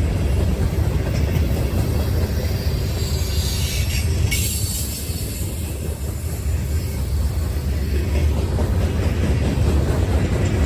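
Freight train rolling past, a steady heavy rumble of wheels on the rails.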